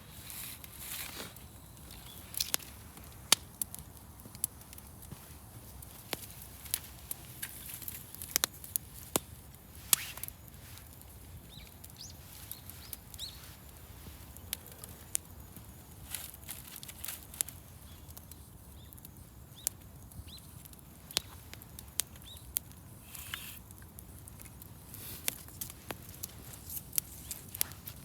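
Wood fire crackling, with irregular sharp pops and snaps over a steady low burning hiss.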